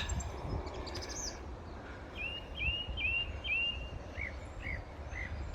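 A small bird calling: four quick chirps that rise then level off, followed by three shorter arched notes, over a steady low rumble.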